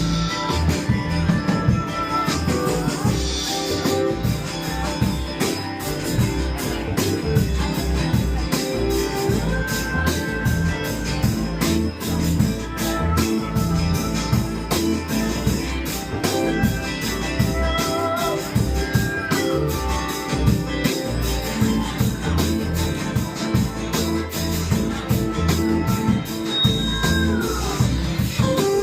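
Live band playing an instrumental stretch between sung lines: guitar over a drum beat with a steady pulse, and a few notes that slide down in pitch.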